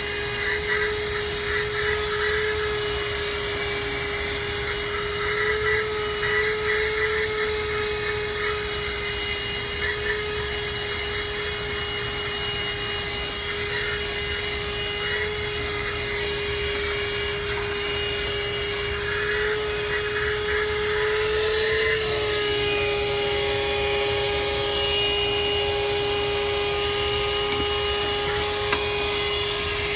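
Handheld 12-volt car vacuum cleaner running with a steady motor whine. About two-thirds of the way through its pitch shifts slightly and it gets a little louder, then holds steady.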